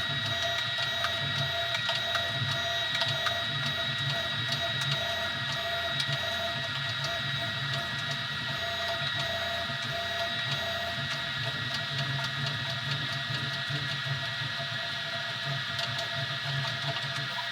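Easythreed X2 desktop 3D printer running a print: its stepper motors give two steady high whining tones over a low hum that keeps shifting as the print head moves, with occasional faint ticks.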